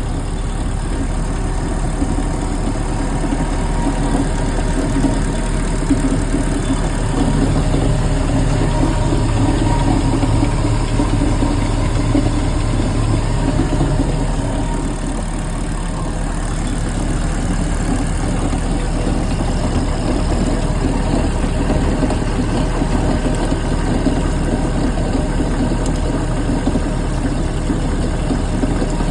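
MerCruiser 350 MAG MPI marine V8 engine running steadily with a grinding noise, a little louder for several seconds around ten seconds in.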